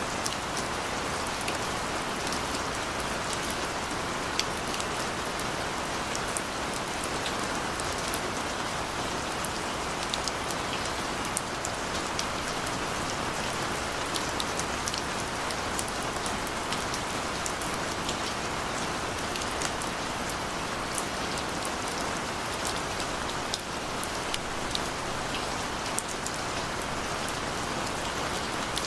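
Steady gentle rain falling, an even hiss with many sharp drip and drop ticks scattered through it.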